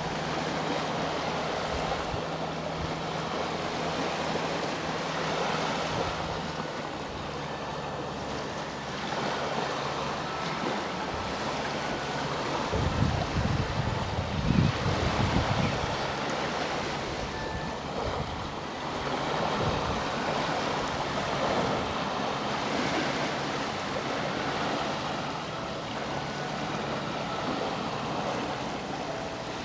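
Sea waves washing onto the shore in slow repeated swells. A faint low hum fades out in the first few seconds, and a louder low rumble comes about halfway through.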